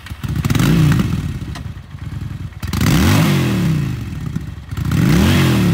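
Honda Shadow Aero 750's liquid-cooled, fuel-injected V-twin revved three times, each blip rising and falling back to idle, about two and a half seconds apart.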